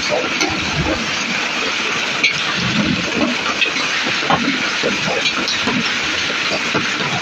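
Heavy rain with hail falling in a thunderstorm: a steady hiss of downpour with scattered sharp hits of hailstones striking.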